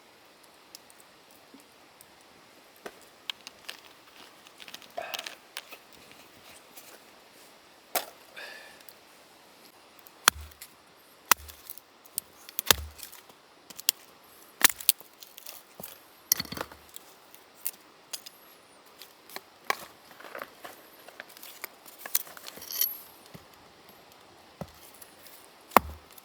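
Firewood being split by hand: a series of sharp wooden knocks and cracks, spaced irregularly a second or two apart, starting about ten seconds in after a few lighter clicks.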